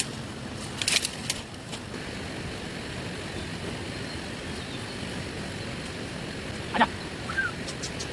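Steady rain falling, with a few sharp taps about a second in and a single knock near the end, followed by a brief high chirp.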